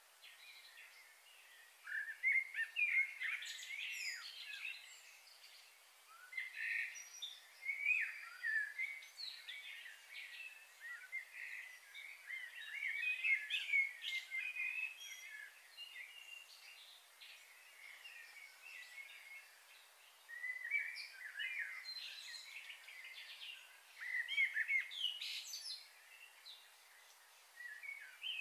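Small birds chirping in quick bouts of short, high calls that come and go several times, over a faint steady hiss.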